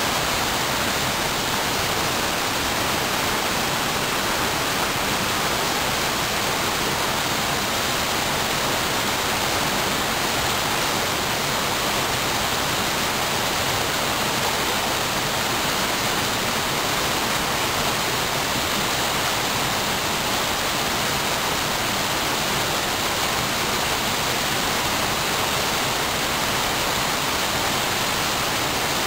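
Waterfall cascading near peak flow: a steady, even rush of falling water.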